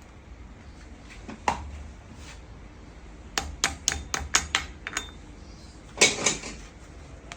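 Metal tools and parts clinking and knocking on a workbench. There is a single knock about a second and a half in, a quick run of about seven clinks a little later, and a louder clatter near the end.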